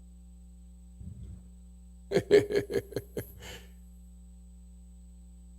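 A short burst of laughter, about a second and a half long, made of quick pulsed "ha" sounds, over a steady low electrical hum.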